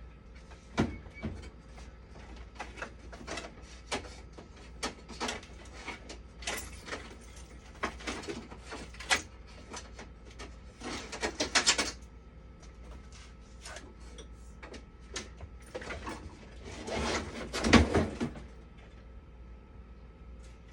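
Hands and tools handling parts inside a dialysis machine during a power-supply swap: scattered clicks and knocks, with two longer scraping, rattling stretches near the middle and toward the end, over a low steady hum.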